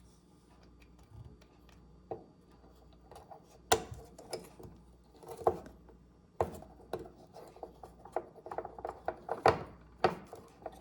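Small plastic microwave door interlock switch being handled and pressed onto its plastic mounting bracket: scattered sharp plastic clicks and taps with some rubbing, getting busier in the second half.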